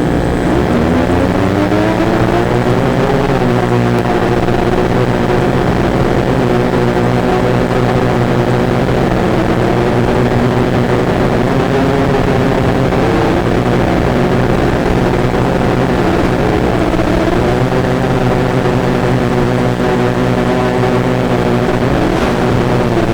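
Drone's motors and propellers humming steadily in flight, their pitch drifting up and down as the throttle changes.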